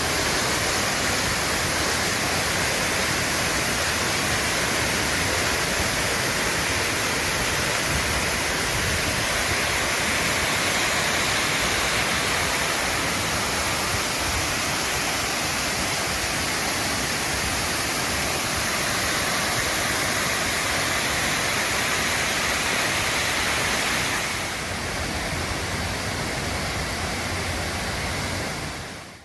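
Oshinkoshin Falls, a waterfall, pouring with a steady, loud rush of water. Near the end the sound turns a little quieter and duller, then cuts off.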